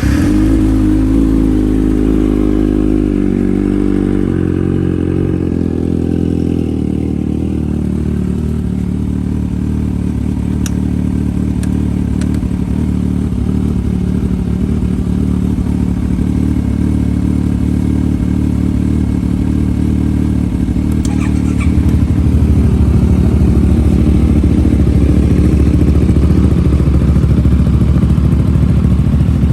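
Motorcycle engine with an aftermarket exhaust idling right after starting, its idle dropping in steps over the first several seconds and then running steadily. About 22 seconds in, the exhaust gets louder and fuller.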